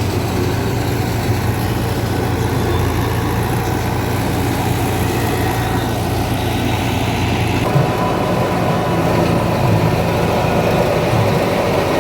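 Fiat 640 tractor's four-cylinder diesel engine running steadily while driving a wheat thresher, with the thresher's mechanical clatter mixed in. The sound changes character about three-quarters of the way through.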